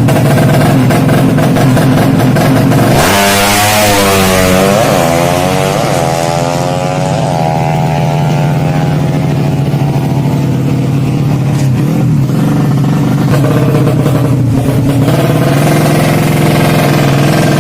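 Modified 200cc Yamaha Jupiter drag bike engine running steadily, then revved hard about three seconds in: the pitch rises and falls in about four quick blips before settling back to a steady run.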